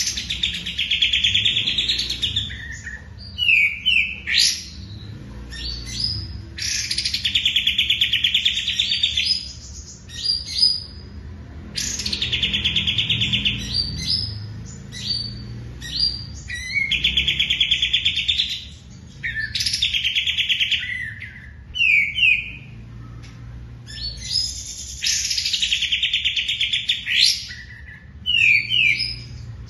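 A songbird singing the same phrase over and over: a fast, buzzy trill lasting about two seconds, followed by a few short sharp notes, with the phrase coming back roughly every six seconds.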